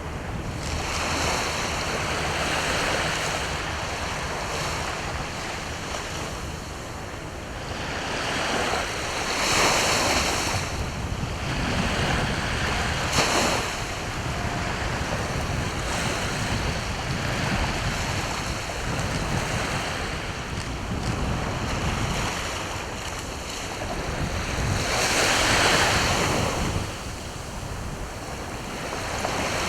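Sea waves breaking and washing up the shore in a continuous surf, swelling louder about ten seconds in and again near the end, with wind rumbling on the microphone.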